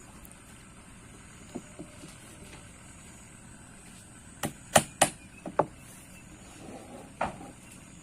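Hammer blows nailing the plastic drum hull to the wooden keel: a few sharp knocks, five close together around the middle and one more near the end.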